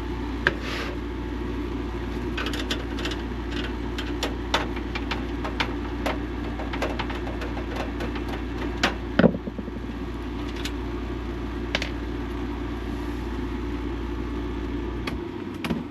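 A steady machine hum, like a running motor or fan, with scattered clicks and knocks of things being handled. The hum cuts off suddenly near the end.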